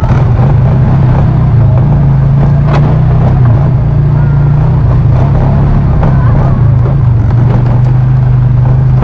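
Four-wheeler (ATV) engine running steadily under way, a loud, even hum.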